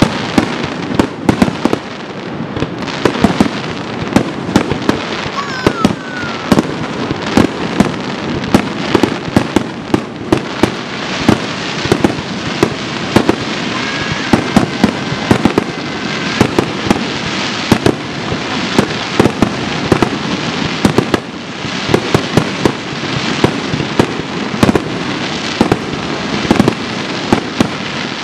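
Aerial firework shells bursting in quick succession: sharp bangs several times a second over a continuous crackle.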